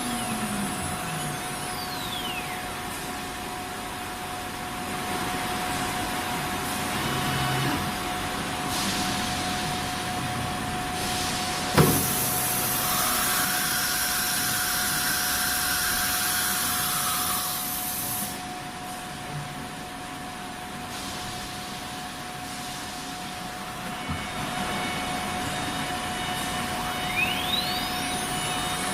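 Sawmill band saw (aara machine) running with a steady hum and a constant whine. About twelve seconds in there is a sharp knock, then a louder stretch of cutting noise for several seconds. The machine's pitch falls near the start and rises again near the end.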